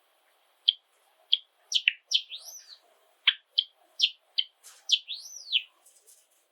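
Java sparrow singing: a run of short, sharp chip notes starting a little under a second in, with two arching rising-and-falling whistled notes mixed in.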